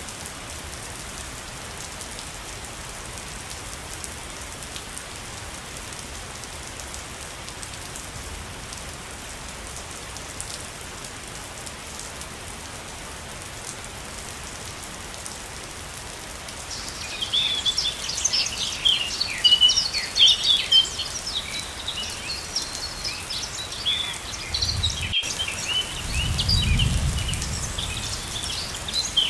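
Steady rush of falling water from a waterfall; a little over halfway through, a chorus of small birds starts chirping rapidly and densely over it. Near the end there is a brief low rumble.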